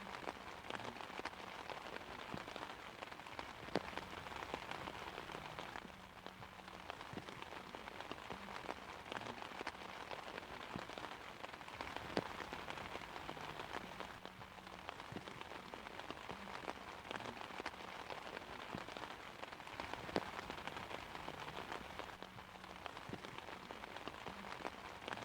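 Steady rain falling on an umbrella: an even patter with scattered sharper drop ticks and a few louder single drips.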